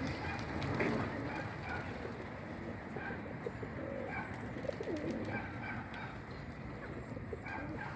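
Pigeons cooing, with repeated low gliding coos and short higher chirps mixed in.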